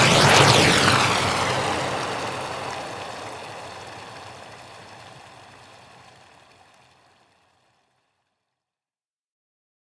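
A cinematic sound-design whoosh and rumble with a sweeping, flanged tone, dying away steadily over about seven seconds into silence.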